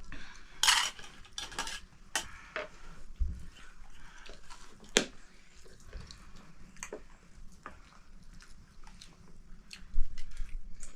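Metal pots, dishes and utensils clinking and knocking in irregular, scattered strikes, a few of them sharper and louder.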